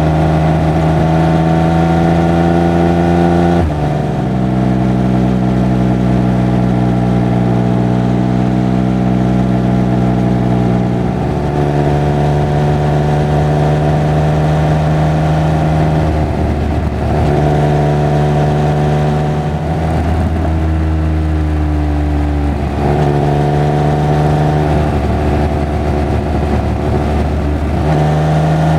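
Triumph Speed Triple 1200 RR's inline three-cylinder engine and exhaust running under way. The engine note holds fairly steady, then steps to a new pitch several times, about four seconds in, around eleven seconds and repeatedly after sixteen seconds, with slow rises and falls between the steps.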